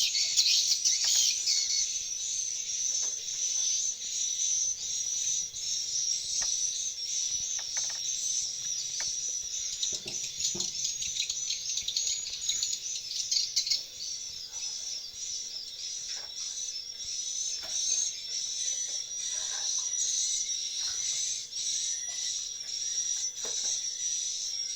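Swiftlets twittering: a dense, unbroken high-pitched chirping, with scattered short clicks.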